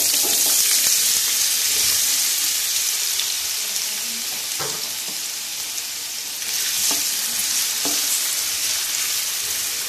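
Diced raw potatoes frying in hot oil in a frying pan: a steady, loud sizzling hiss. A wooden spatula stirring them knocks against the pan a few times in the second half.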